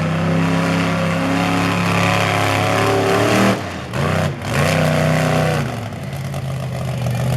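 Monster truck engine revving hard, with the throttle cut off sharply twice about halfway through before it climbs and falls again.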